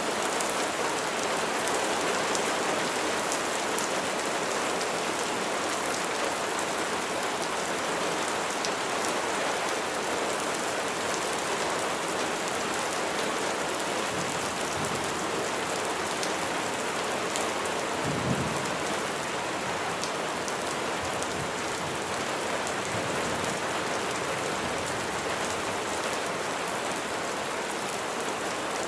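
Steady rain: an even hiss of drops falling on a surface, with scattered sharper drop ticks. A brief low thump comes about two-thirds of the way through.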